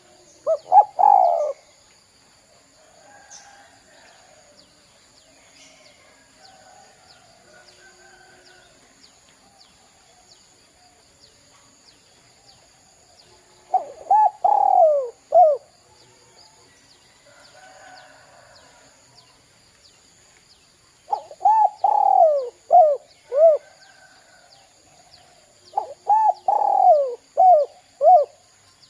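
Spotted dove cooing in four bouts: one about a second in, one near the middle and two towards the end. Each bout is a quick run of short coos, each falling in pitch.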